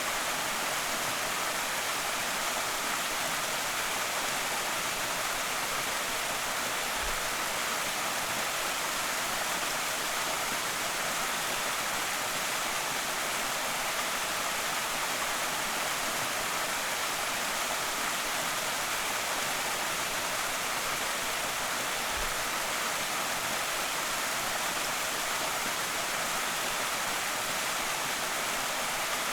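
A creek waterfall: water pours steadily over rock in an even, unbroken rush with a hissing top end.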